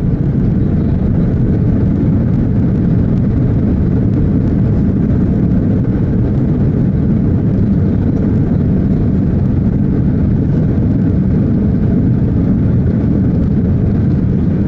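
Airplane landing: a loud, steady, deep rumble.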